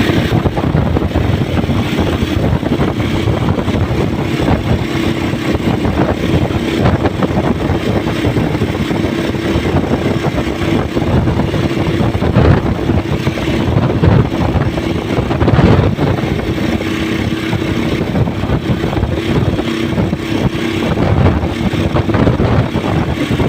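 Motorcycle riding along at a steady speed, its engine running with a steady hum under heavy wind rumble on the microphone.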